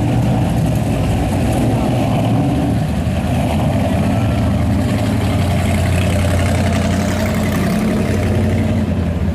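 Car engines running at parade pace, a steady deep rumble, with voices of people around.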